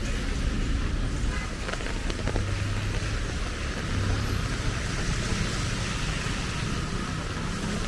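Street traffic: vehicle engines running and passing, with a low engine rumble swelling for a couple of seconds in the middle, over a steady hiss.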